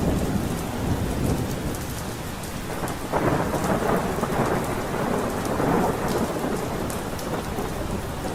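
Steady rain with rolling thunder; a longer roll of thunder swells about three seconds in and rumbles for a few seconds.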